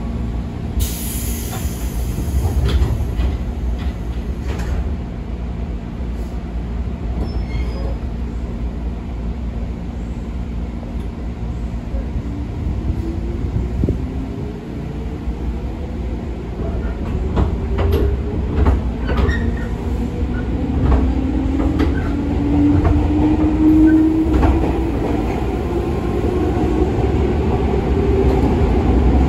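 Inside a 205-series electric commuter car on an underground line: the doors close, then the train pulls away. The traction motors and gears whine, rising in pitch over the rumble of the wheels as it picks up speed, with some wheel squeal.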